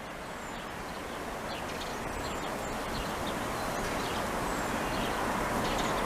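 Outdoor ambience: a steady rushing background noise that swells slightly, with a few faint, short, high chirps from birds.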